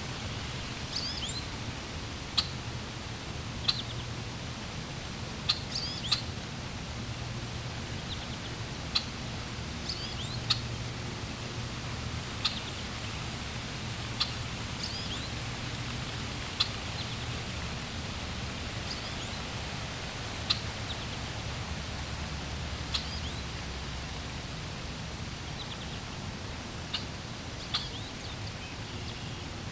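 Birds chirping in short, high calls every second or two over a steady rush of flowing water.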